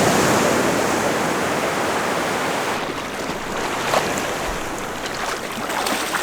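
Wind and sea water rushing around a boat, with wind buffeting the microphone, and a single short knock about four seconds in.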